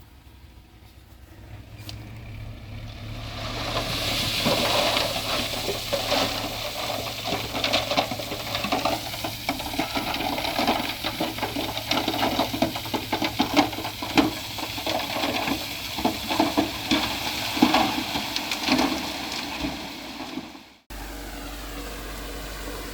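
Heavy earthmoving machine running, its steady engine hum under a dense crackle and clatter of soil and rock breaking and tumbling as a load of dirt and stone is pushed or dumped. It cuts off abruptly near the end to a different steady hum.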